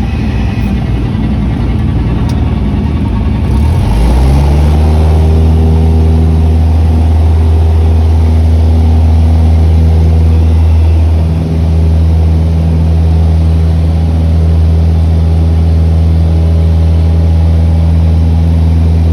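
Light single-engine Cessna's piston engine and propeller: a rough rumble at first, then about four seconds in the engine revs up quickly to full power and holds a steady drone, the power applied for the takeoff of a touch-and-go. The drone dips briefly once, near the middle.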